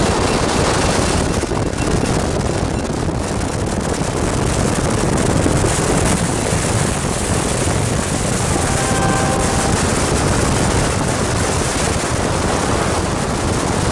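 Steady loud rushing rumble of a passenger train passing close by, mixed with a car going past, with wind buffeting the microphone.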